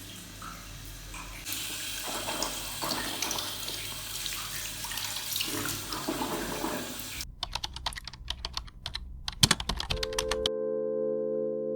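Water running, as from a tap into a sink, for about seven seconds, followed by a quick run of sharp clicks and taps. Music with steady held tones comes in about ten seconds in.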